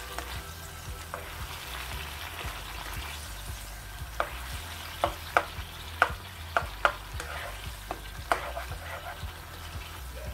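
Diced chicken, onion and tomato purée sizzling in a non-stick wok over a high gas flame while a slotted spatula stirs them. From about four seconds in there is a run of sharp clicks, about eight, as the spatula knocks against the pan; these are the loudest sounds.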